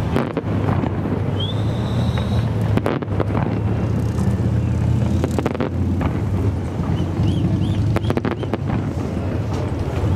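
Fireworks display: a continuous rumble of shell bursts with sharp bangs at irregular intervals, and a rising whistle about a second and a half in.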